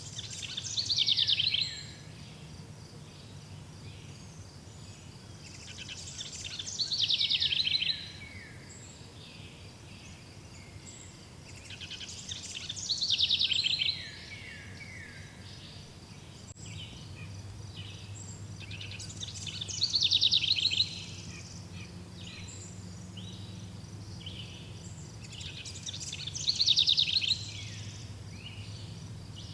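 A songbird repeats the same short song five times, about every six seconds; each song is a rapid trill that falls in pitch. Behind it, insects chirr steadily with a fast pulse, over a faint low hum.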